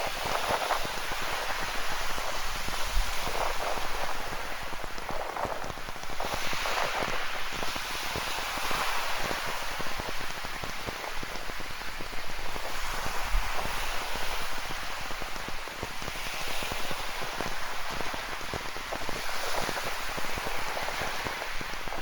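Steady rain falling, dense with fine drop hits, over ocean waves washing on a rocky shore that swell up every few seconds.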